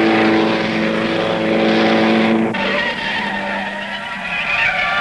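Vintage racing car engines running hard at a steady pitch. About two and a half seconds in, one engine's note drops away and another, higher-pitched engine note comes in.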